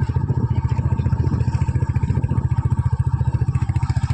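Royal Enfield Hunter 350's single-cylinder engine running steadily, its exhaust pulses coming in a fast, even beat.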